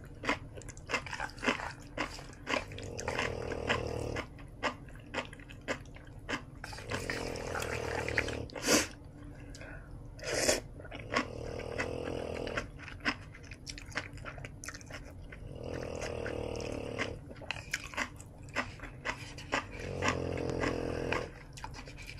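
A sleeping dog snoring in slow, even breaths, one long snore about every four seconds. Between the snores there are close-up wet chewing and mouth clicks from eating kimchi noodles and dumplings.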